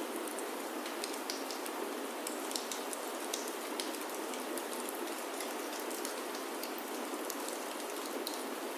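Steady rain falling on a wooden chalet roof, an even hiss with scattered small high ticks of drops throughout.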